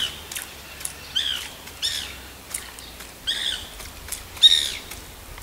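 A bird calling repeatedly: short calls, each arching up and down in pitch, about once a second.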